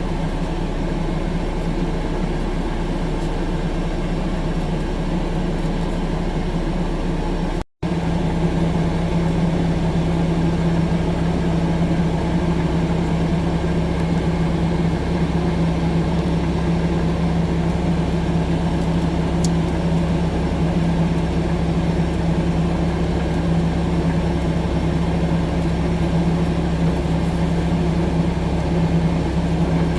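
Diesel engine of a 6-ton tracked skid steer loader running steadily. About a quarter of the way in the sound cuts out for an instant and comes back with a stronger steady hum.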